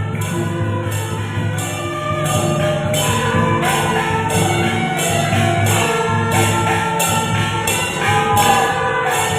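Temple-procession music: a wavering melody over a steady beat of crashing cymbals, about two clashes a second.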